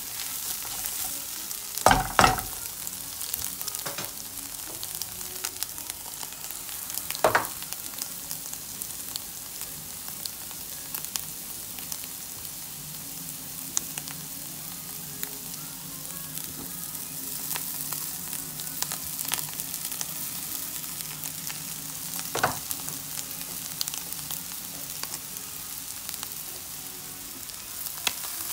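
Onions and egg sizzling in a nonstick frying pan while being stirred, with three loud knocks of the stirring utensil against the pan.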